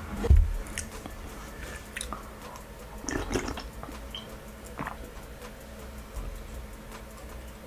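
Close-miked chewing and mouth sounds of a person eating, with a loud dull thump just after the start and a short burst of clicks a little over three seconds in.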